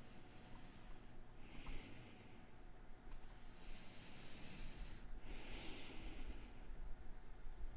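A person breathing close to the microphone: a few slow, hissy breaths in and out, over a faint low hum.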